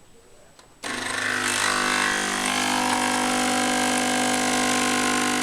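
Nespresso capsule machine's pump switching on abruptly about a second in and buzzing steadily, forcing water through the capsule as a lungo brews.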